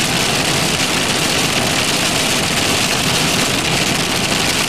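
Steady noise inside a moving car in heavy rain: tyres on wet road and rain on the car's body, with the engine underneath.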